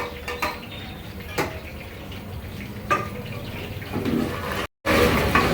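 Steady hiss from a large cooking pot of masala gravy, with a few sharp knocks from a utensil. The sound cuts out completely for a moment about four and a half seconds in, then returns louder.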